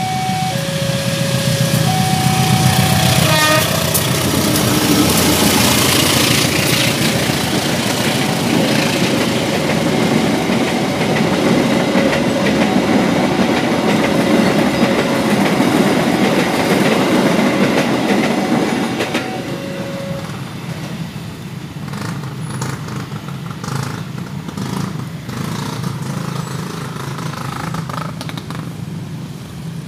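A diesel-hauled passenger train runs through a level crossing. Its rumble builds within the first few seconds and stays loud, then drops off about two-thirds of the way through as the last coach clears. The crossing's electronic warning signal sounds throughout the pass as two alternating tones, fading as the rumble drops away, and lower road-traffic noise follows.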